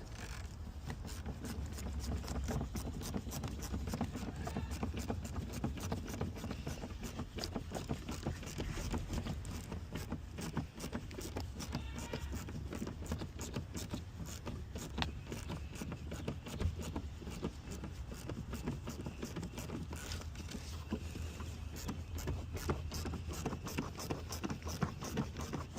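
Small irregular clicks and rattles of hand work on the engine, as intake bolts are threaded in by hand, over a steady low hum.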